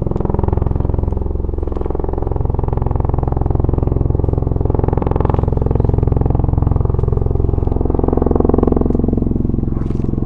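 CV-22 Osprey tiltrotor running: a loud, steady drone from its proprotors and engines with a fast pulsing throb.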